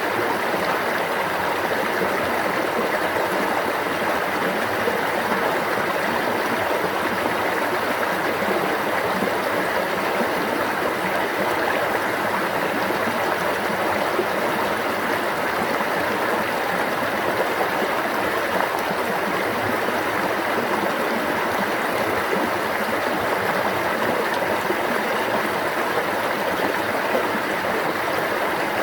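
A stream of water flowing and babbling steadily, an even rushing that does not change.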